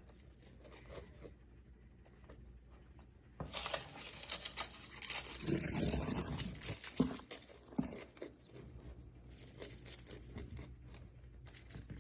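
Dried rose leaves crackling and tearing as a Moluccan cockatoo crunches and shreds them with its beak. It starts about three and a half seconds in, is densest in the middle, and thins to lighter crackles near the end.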